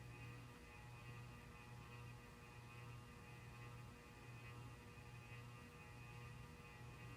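Near silence with a faint steady electrical hum that swells and fades about once a second.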